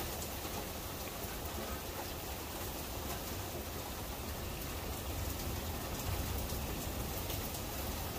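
Steady rain falling during a thunderstorm, with scattered drops ticking and a low rumble underneath that grows a little past the middle.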